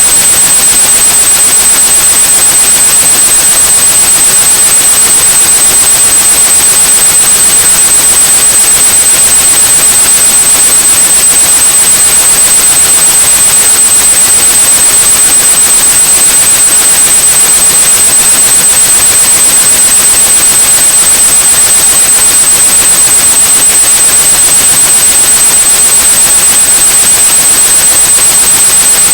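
A steady 8100 Hz sine tone over continuous white noise, used to mask tinnitus. Both run loud and unchanging, the hiss brightest in the high range.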